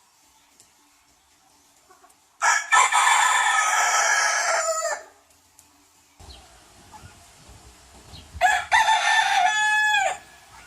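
Rooster crowing twice: a long crow a couple of seconds in, then a shorter one about eight and a half seconds in that drops in pitch at its end.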